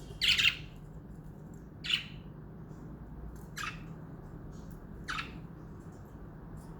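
Pet budgerigars squawking: four short, harsh calls about a second and a half apart, the first the loudest and longest.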